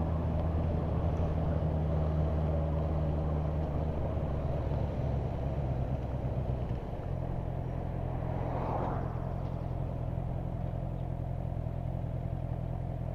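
Motorcycle engine running at low town speed under road and wind noise. About seven seconds in its note drops as the revs fall, and a brief swell of noise follows near nine seconds.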